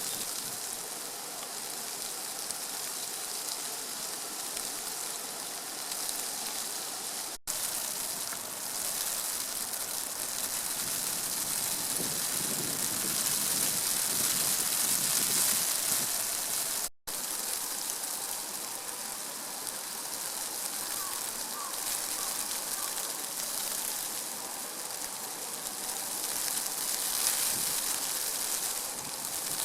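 Steady rushing water noise outdoors, broken by two sudden, very brief dropouts about seven and seventeen seconds in.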